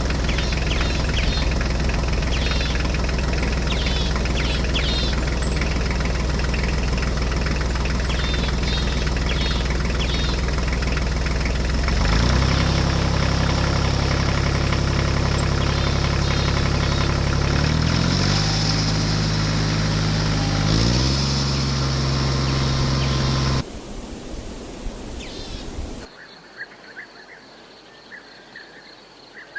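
Small engine of a DIY mini tractor running steadily, changing speed about halfway through and shifting pitch twice more, then cutting off abruptly near the end. Birds chirp over it, and after it stops only faint birds and insects remain.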